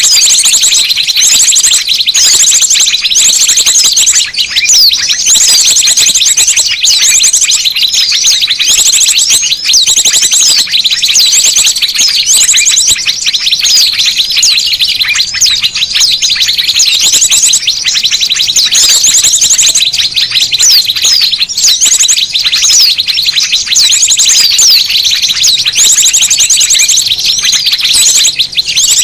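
Dense chorus of many small birds chirping, twittering and trilling at once, high-pitched, loud and nonstop: a bird-lure (pikat) recording of noisy small birds, played to draw wild small birds in.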